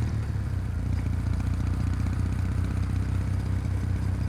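Kawasaki W800's air-cooled parallel-twin engine running steadily, with no revving.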